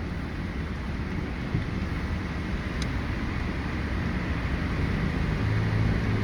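Car cabin noise while driving: a steady low rumble of engine and tyres that grows a little louder, with a low hum, near the end. There is one faint tick a little before the middle.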